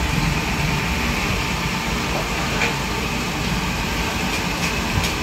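Steady low rumble with a hiss over it: a gas burner running under a large pan of frying oil.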